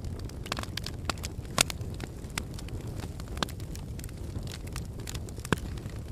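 Wood fire burning in a fireplace, crackling and popping over a steady low rumble. The two sharpest pops come about a second and a half in and near the end.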